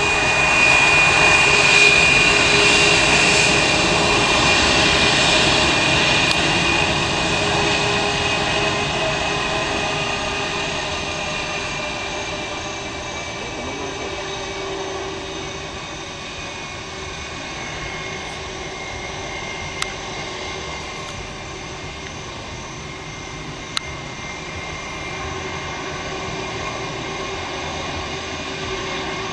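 Airbus A319 jet engines running at low power with a steady high whine over a rushing roar. The whine is loudest near the start, then slowly fades and drops a little in pitch.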